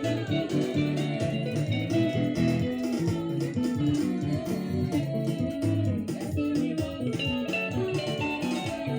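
Guitar music in the sebene style, the picked, repeating lead passage of Congolese rumba and soukous, playing continuously with bass notes beneath.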